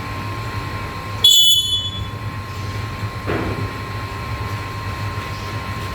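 Black-capped lory gives one short, shrill screech about a second in, over a steady background hum.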